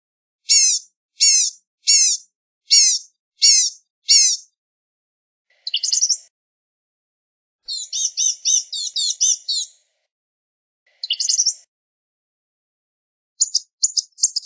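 Blue-gray gnatcatcher calling: a series of six short, high, down-slurred notes about two-thirds of a second apart, then after a pause a quick burst, a rapid chattering string of notes, another brief burst, and a few more notes near the end.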